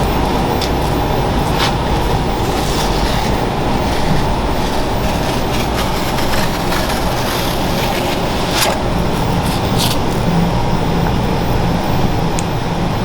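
Steady mechanical rush of restaurant kitchen noise, with a few short sharp clicks scattered through.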